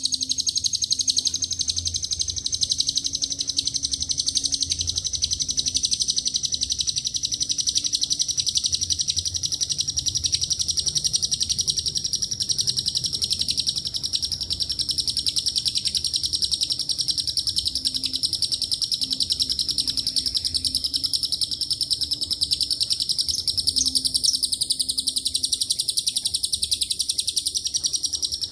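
Lovebird in a long, unbroken ngekek: a rapid, high-pitched chattering trill that runs on without pause, filled with phrases copied from cililin and canary song.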